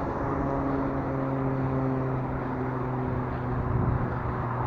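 Wind and road noise from riding a mountain bike on a road, with a steady low hum throughout.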